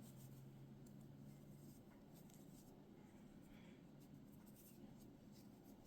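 Near silence with faint, scattered scratchy rustles: a crochet hook working chunky blanket yarn into a magic circle.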